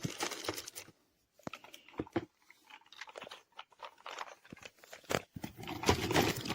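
Packaging being handled while toy pieces are packed back into a cardboard box: irregular crinkling and rustling with scattered sharp clicks and knocks of plastic parts, louder near the end.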